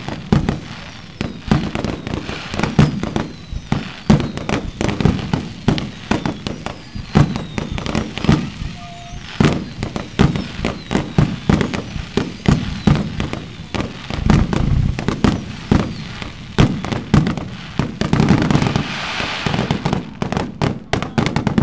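Aerial fireworks shells launching and bursting close by in a rapid, continuous string of loud bangs with crackle and echo between them.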